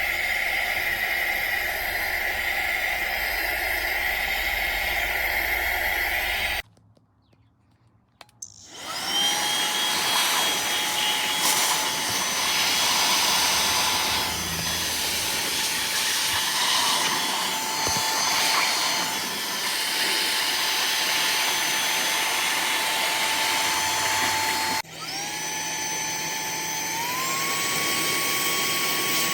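AX2V handheld vacuum cleaner's brushless motor running with a steady high whine. It switches off about seven seconds in and restarts a couple of seconds later with a rising whine as it spins up. Near the end it cuts out briefly, spins up again and steps up to its higher speed setting.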